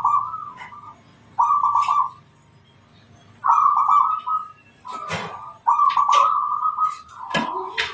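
Zebra dove (perkutut) cooing: a run of rolling, trilled coos, about five phrases with short gaps between them, with brief sharp higher chirps in between.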